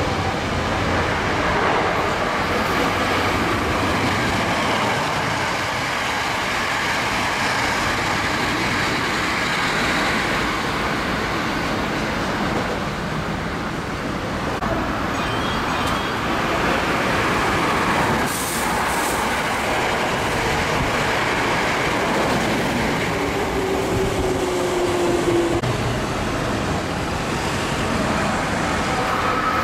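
Hankyu 9300-series electric trains running through the station, a steady noise of wheels on rail throughout.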